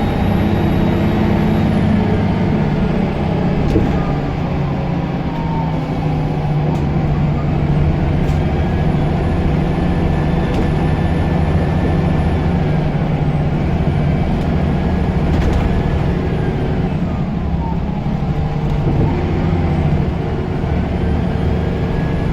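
Scania L94UB bus engine running under way, its turbocharger whistling. The whistle rises, holds and falls away several times as the engine pulls and eases off.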